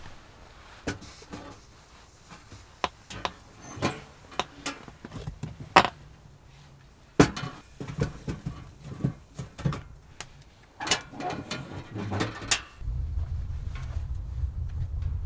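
Irregular clicks and knocks of things being handled in a small enclosed space, then a steady low rumble sets in near the end.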